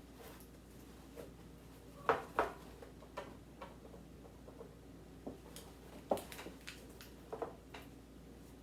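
Scattered light knocks and clicks of food containers and packages being handled and set down while a refrigerator is cleared out, the sharpest about two seconds in and again near six and seven seconds.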